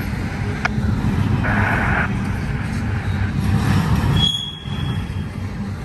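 BNSF double-stack intermodal train rolling past: a steady low rumble of well cars on the rails, with a brief high wheel squeal about four seconds in.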